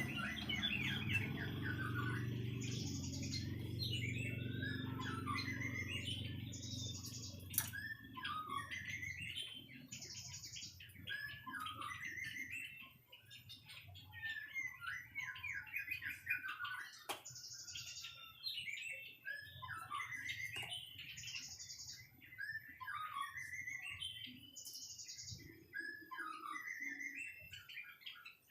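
White-rumped shama singing a continuous run of varied, rich whistled phrases. A short, high buzzy note recurs every two to three seconds, and a low hum underneath fades out about a third of the way through.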